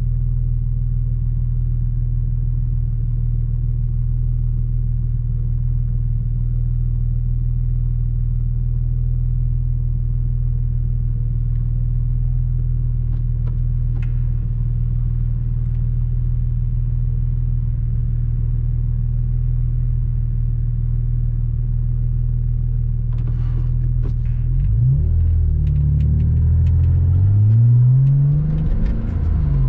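Porsche Boxster 986 flat-six engine running at steady revs, a constant low drone while cruising. Near the end the car accelerates: the engine pitch climbs, drops back at gear changes and climbs again.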